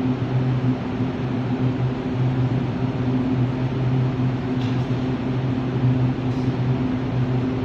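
Steady low drone of a train standing or running at the station, a hum made of a few even, slightly pulsing tones over a rumble.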